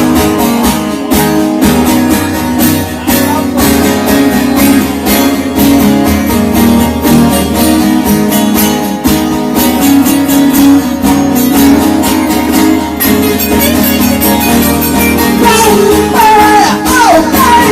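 Live guitar music: strummed guitars playing an instrumental passage, with sliding notes near the end.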